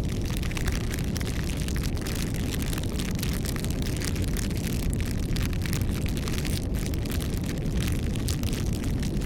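Campfire burning steadily: a low rumble of flame with dense, irregular crackles and pops of burning wood.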